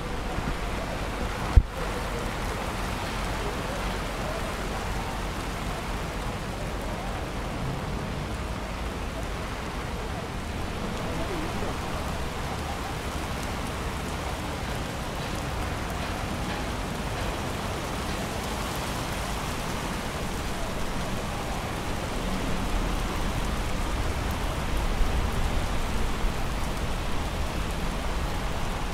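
Rain falling steadily in an even hiss, with one sharp click about a second and a half in.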